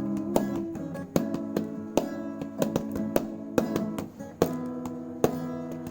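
Acoustic guitar strumming chords, an instrumental break between sung lines of a pop ballad.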